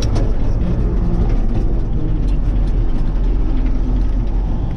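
Kirovets K-700A tractor's diesel engine running steadily under load, with scattered light clicks and rattles.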